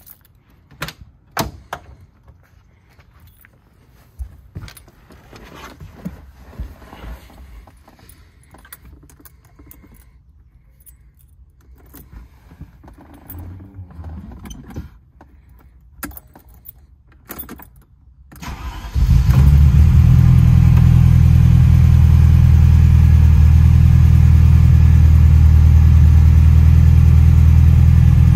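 Keys jangling and scattered clicks from handling in the car, then the 1985 Ferrari 308 QV's V8 starts about two-thirds of the way in and runs steadily and loudly.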